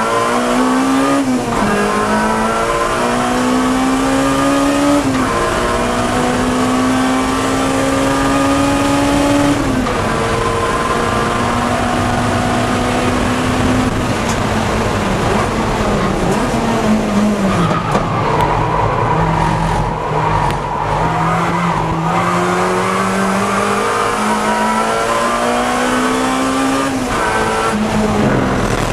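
Acura Integra Type R race car's four-cylinder engine pulling hard at high revs, its pitch climbing through the gears with quick upshifts about a second in, around five seconds and near ten seconds. In the middle the revs fall away for a few seconds, then climb again to another shift near the end.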